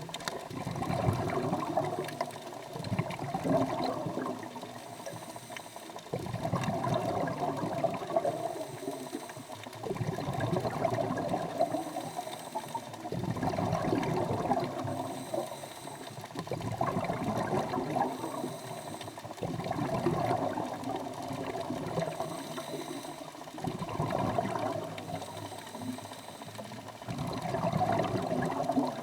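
Scuba diver breathing through a regulator underwater: a rush of exhaled bubbles about every three and a half to four seconds, each swelling and fading in a steady rhythm.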